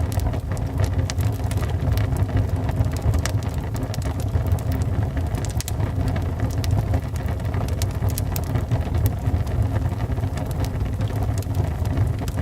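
Wood fire burning in a fireplace: a steady low rumble of the flames with frequent small, sharp crackles and pops at irregular moments.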